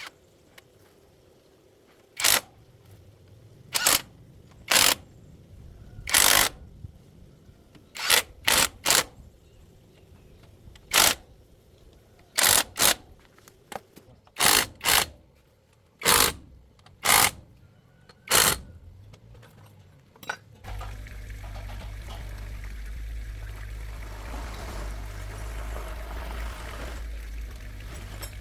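A series of about fifteen short hissing bursts at irregular intervals, then a steady low machine hum that starts about twenty seconds in and runs on.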